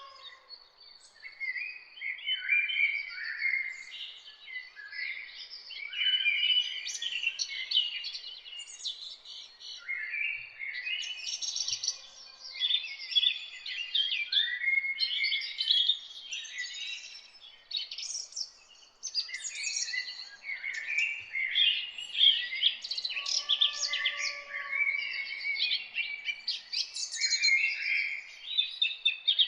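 Several songbirds singing and chirping at once, in dense overlapping phrases of quick high chirps and trills, with short lulls around 10 and 19 seconds in.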